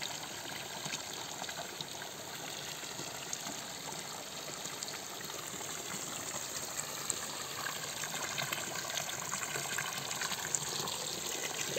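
Mountain spring water running steadily from a fountain spout.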